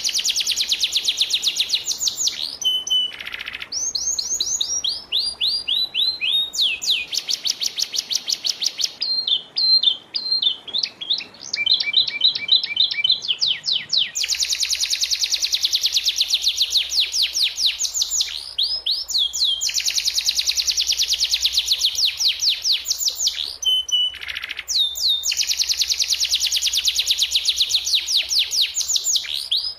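Domestic canary singing in long runs of fast, evenly repeated high trills, with a few short breaks and a more varied, choppy phrase near the middle.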